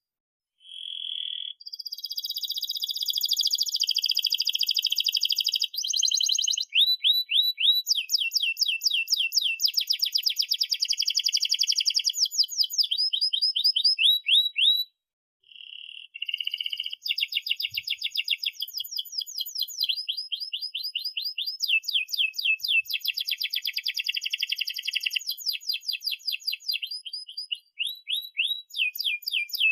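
Domestic canary singing a long song of fast rolling trills: high, sharp notes repeated rapidly in runs that switch from one trill type to the next every second or two, with a short break about halfway.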